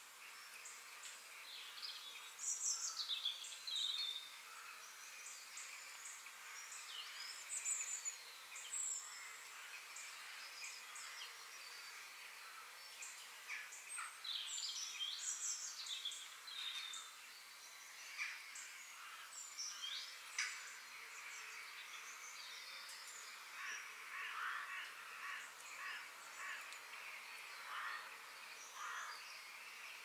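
Wild songbirds calling in woodland: short chirps and downward-sliding whistles, with a busier run of quick short notes in the second half, over a faint steady outdoor hiss.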